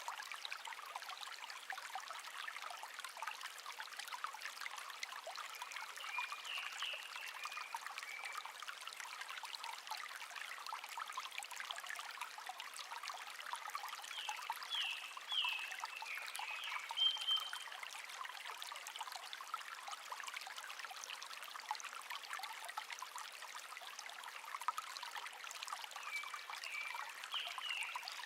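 Shallow stream (せせらぎ) babbling steadily, with wild songbirds singing short chirping phrases three times: about six seconds in, around the middle, and near the end.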